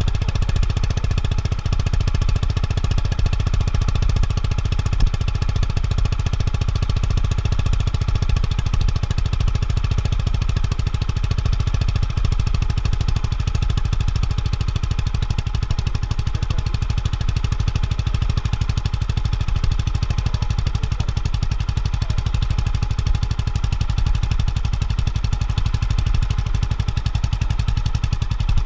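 Honda GB350S air-cooled single-cylinder engine running steadily through its stock muffler, a rapid, even exhaust beat that holds the same throughout.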